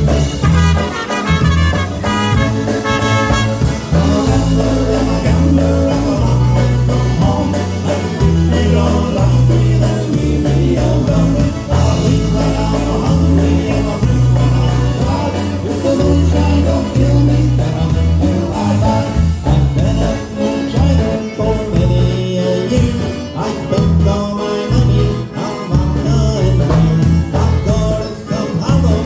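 Live polka band playing an oberek, a fast Polish folk dance tune in triple time, with a prominent bass line under the melody.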